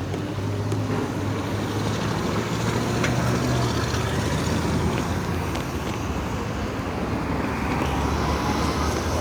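Road traffic noise: motor vehicles running, with a steady low engine drone.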